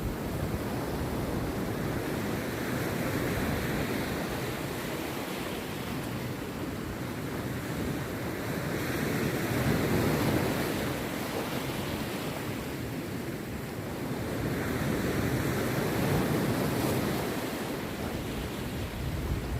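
Rough sea surf breaking on a beach, a steady wash that swells and falls back three times as the waves come in.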